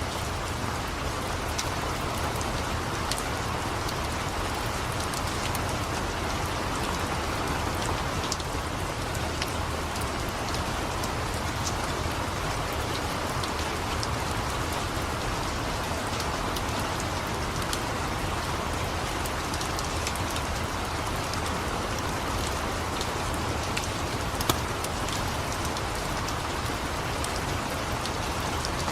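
Steady rain, with a wood fire crackling in scattered small clicks. One sharper pop comes about 24 seconds in.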